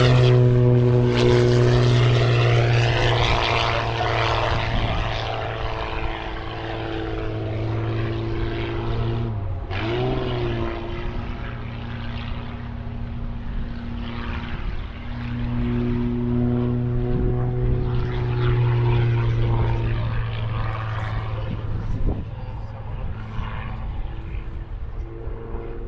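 Propeller airplane engine droning steadily in flight. The tone dips and sweeps about ten seconds in, then holds steady again a few seconds later.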